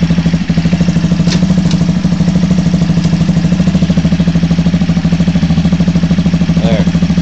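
A 150cc motorcycle engine idling steadily with an even pulse. There is one sharp click about a second in.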